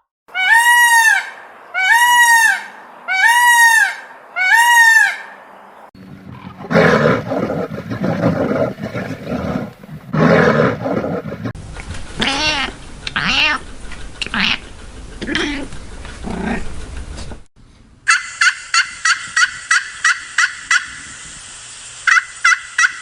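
Different farm animals calling one after another: first four high, arching calls about a second apart, then a rougher, noisier stretch, then lower rising-and-falling calls, and near the end a run of quick, evenly repeated short notes.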